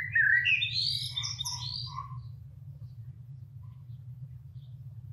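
A songbird sings one quick phrase of warbled notes that climb in pitch over about the first two seconds. Only a few faint chirps follow, over a low steady hum.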